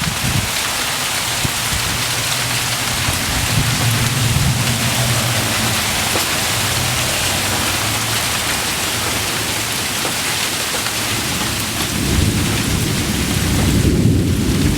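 Thunderstorm with a steady hiss of falling rain and ice, and thunder rumbling low through the middle and again, louder, near the end.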